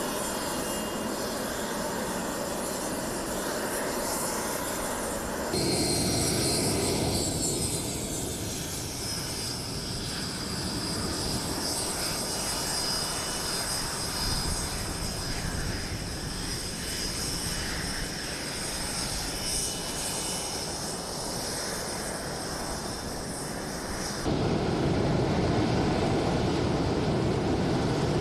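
Tornado fighter jet's engines running, a steady jet noise with a high whine that glides slightly down in pitch. The sound changes abruptly twice, about five seconds in and near the end, as separate shots of the aircraft follow one another.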